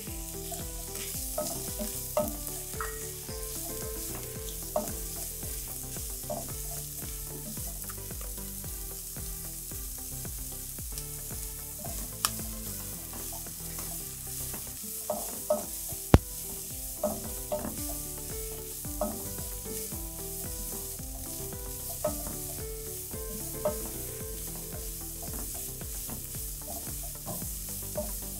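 Chicken strips, onion, carrot and celery sautéing in oil in a pot, a steady sizzle while a spoon stirs and scrapes through them, clicking against the pot now and then.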